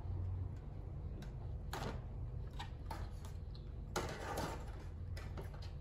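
Someone chewing toasted bread with the mouth closed: a few short, dry crunches, over a low steady hum.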